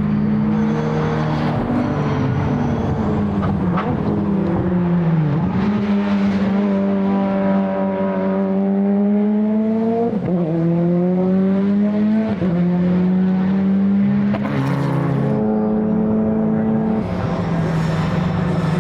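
Modified time-attack race car engine under hard acceleration. Its pitch dips, climbs steadily for several seconds, then drops sharply at gear changes about ten and twelve and a half seconds in before climbing again.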